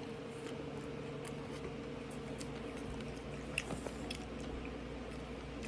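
Mouth close to the microphone chewing a bite of fried chicken sandwich, with a few faint crunches and wet mouth clicks, the clearest about three and a half seconds in, over a steady electrical hum.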